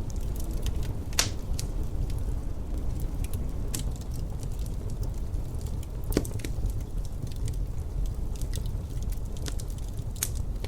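Wood fire crackling in a fireplace: irregular small pops and snaps, with three louder ones (about a second in, near the middle and near the end), over a steady low rumble.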